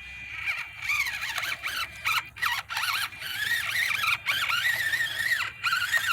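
Electric motor and gears of a 1/24-scale Enduro24 Sendero RC crawler whining in short throttle bursts, the pitch rising and falling with each burst and cutting out briefly several times, as the little truck tries to climb over timbers.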